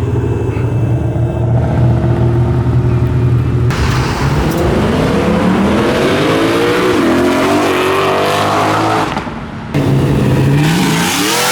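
Modified car engine rumbling at low revs, then revved hard several times with the pitch climbing and falling. It drops off briefly near the end, then climbs steeply again.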